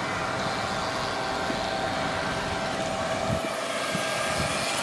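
Steady rushing road and traffic noise with a constant mid-pitched hum running under it.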